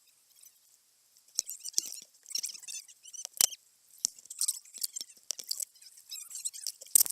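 Water crackling and bubbling against a waterproof camera's housing: an irregular run of sharp clicks and short chirps.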